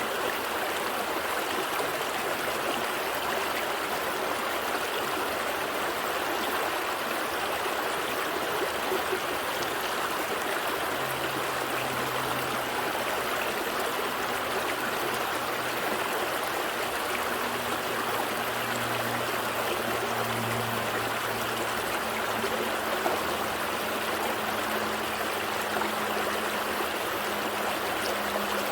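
Gentle stream flowing steadily, water trickling and babbling over stones. A faint low hum joins it about eleven seconds in.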